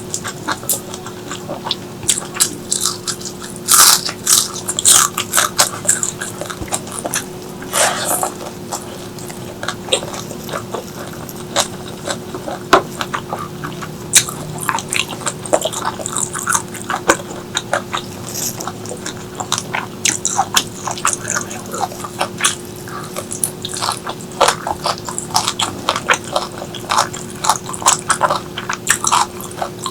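A person chewing and biting food close to the microphone: wet crunching and crackling clicks come irregularly, several a second, with the loudest bites about 4 and 8 seconds in. A faint steady hum sits underneath.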